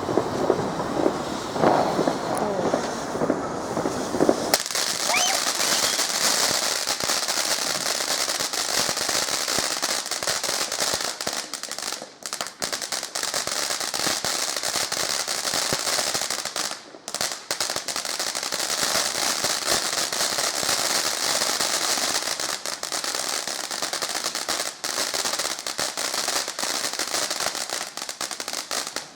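A firework crackling: a dense, rapid run of crackles and pops that sets in about four seconds in and keeps going, breaking off briefly twice.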